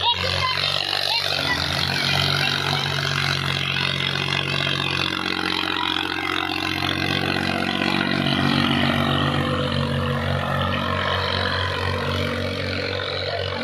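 Tractor engine running steadily, its note changing about eight seconds in.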